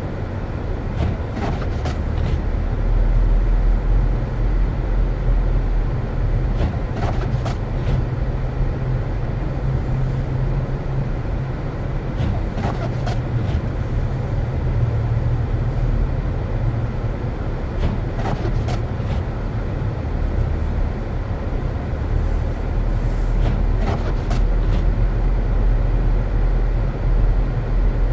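A car driving on snow-covered roads: a steady low rumble of engine and tyres, with a few faint clicks or knocks at irregular moments.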